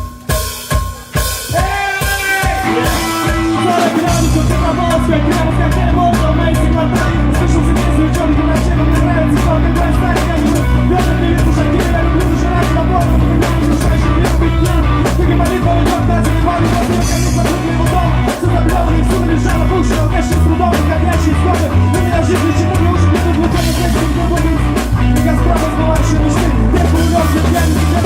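Rock band playing: a sparse opening of drum hits and guitar chords, then about four seconds in the full band comes in with steady drums and a driving bass line.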